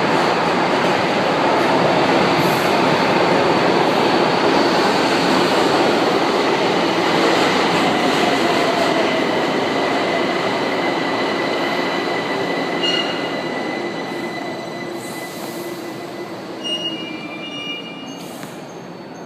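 São Paulo Metro train running through the station, loud at first and then fading steadily as it moves away, from about halfway through. A steady high wheel squeal sounds through the middle.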